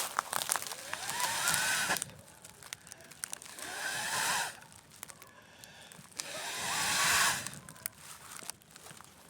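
Three long blows of breath onto a campfire, each a rushing swell of air lasting a second or two with a faint rising whistle, and the fire crackling between them.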